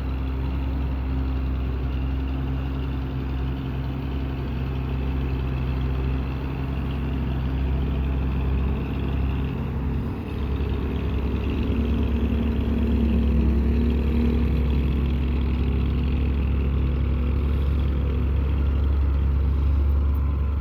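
Bedford truck engine running slow and steady as the heavily loaded truck climbs an incline, labouring at low speed. It grows louder from about halfway through as the truck comes closer.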